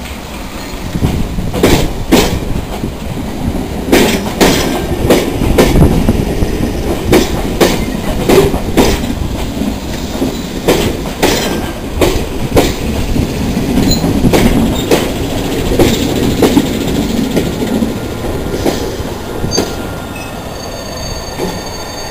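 London Underground train running slowly into the platform: steel wheels clatter over rail joints in a run of sharp clicks over the rumble of the train, with some wheel squeal. The clicks thin out and the sound eases off towards the end as the train slows.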